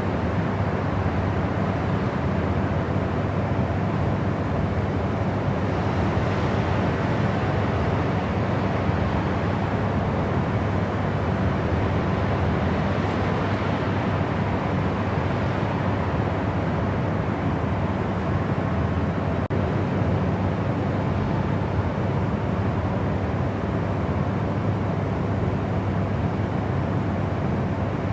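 Steady white-noise sleep sound: an even, unbroken rush with most of its weight in the low and middle range and little treble.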